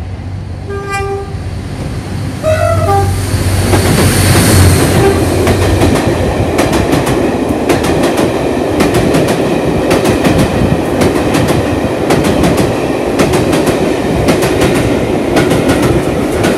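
A train horn sounds two short blasts as a diesel-hauled train comes in, and the locomotive's engine drones past. Its coaches then pass close by at speed, wheels clicking steadily over the rail joints.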